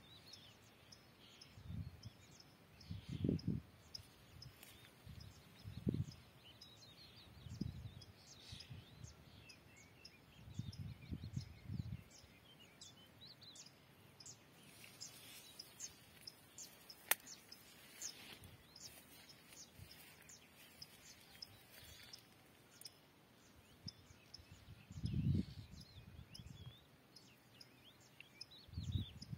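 Faint bird chirping: many short, high chirps in quick succession, with several brief low rumbles breaking in now and then.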